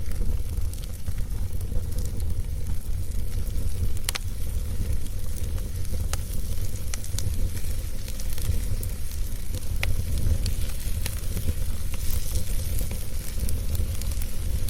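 A fire burning in a fireplace: a steady low rumble and crackle, with a few sharp pops scattered through it.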